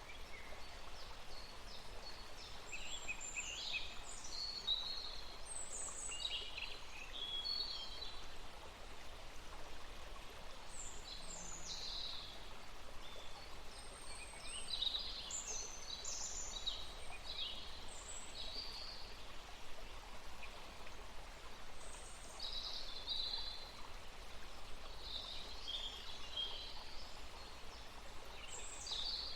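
Small songbirds singing in short, quick chirping and whistled phrases, coming every few seconds with brief pauses, over a steady rushing background noise.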